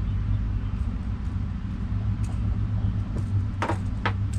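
A steady low rumble, with a few short knocks or rattles about three and a half and four seconds in.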